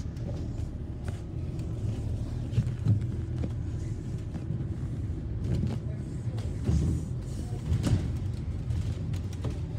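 Bus in motion: a steady low engine and road rumble, with a few short knocks and rattles, the loudest about three seconds in and around seven to eight seconds in.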